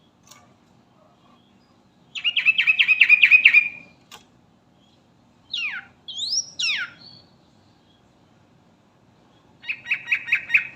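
Sooty-headed bulbul (trucukan) singing: a fast run of about eight chattering notes, then a few quick swooping whistles, then a shorter run of notes near the end.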